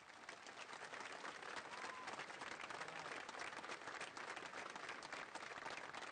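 Audience applauding steadily after the end of a song, the clapping swelling up at the start and holding at a steady level.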